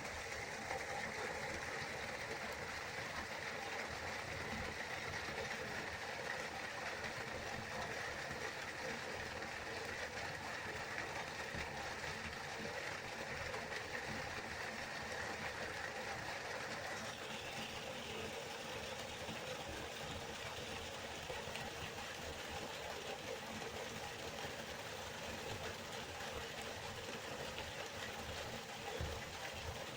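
River water flowing, a steady continuous rushing; its tone shifts slightly about seventeen seconds in.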